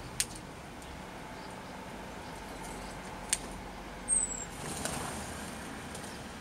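Outdoor background with a steady hum of distant traffic, broken by two sharp clicks and, about four seconds in, a single short high chirp falling in pitch, likely a bird.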